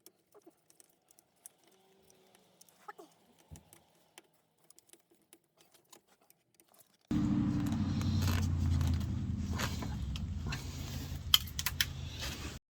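Faint clicks and light rattles of small parts or tools being handled, then about seven seconds in a car engine running cuts in abruptly, steady and loud with a low hum, and stops suddenly just before the end.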